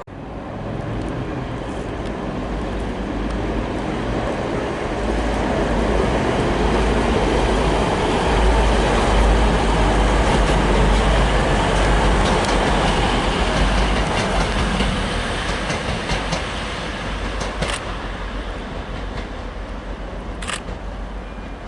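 Train passing through a station. The rumble of its wheels on the rails builds to a peak about halfway through, then fades away, with a couple of sharp clicks near the end.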